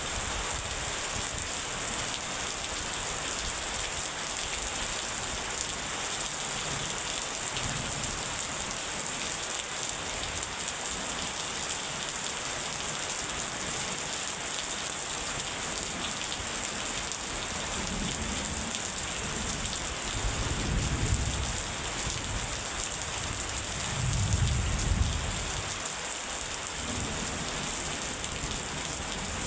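Steady heavy rain falling, with thunder rumbling low twice in the second half.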